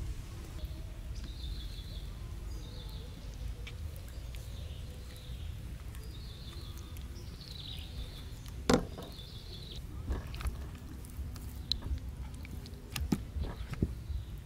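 A small bird chirps in short repeated phrases over a low outdoor rumble. About halfway through there is one sharp knock. Near the end come a few light clicks and taps from hands handling chicken pieces in metal trays of egg batter and flour.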